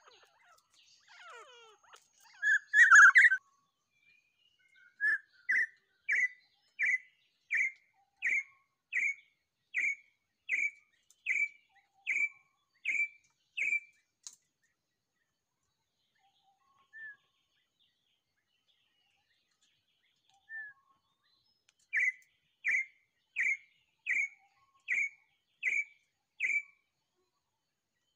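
A bird calling a steady series of short, sharp, identical notes, about one every three-quarters of a second, in two bouts with a pause of several seconds between them. A louder, rougher burst of calling comes a few seconds before the first bout.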